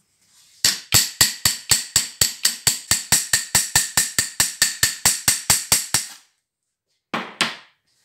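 About twenty sharp taps or knocks in an even, quick rhythm, roughly four a second, for about five seconds, then a single short scrape near the end.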